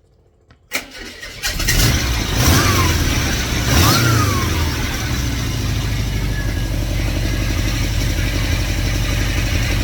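A 2110cc air-cooled VW flat-four engine is cranked by its starter and catches within about a second. It is revved up twice, then settles into a steady idle. It is not a cold start: the engine has already run today.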